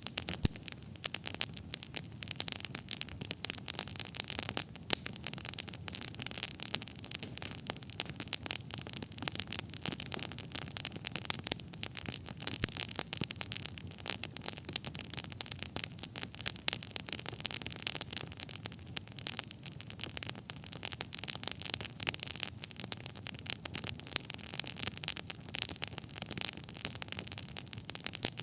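Wood campfire crackling: a dense, continuous stream of small pops and snaps.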